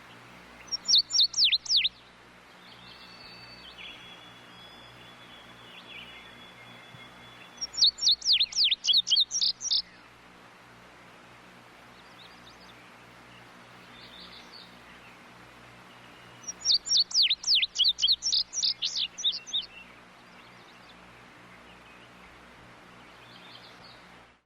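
A bird, the tudigo, calling in three bursts of rapid, sharp down-slurred chirps, each burst a few notes longer than the last: about six notes near the start, about ten notes near the eight-second mark, and about fifteen near the end. Fainter chirps, a thin steady whistle early on and a low hum lie between the bursts.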